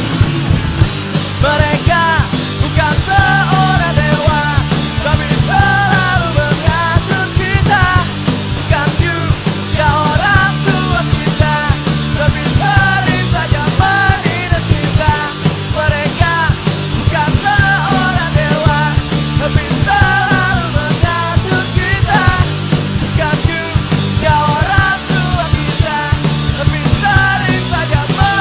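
Punk rock band playing an instrumental passage: distorted guitars, bass and drums with a steady beat, and a lead melody over it that bends up and down in pitch.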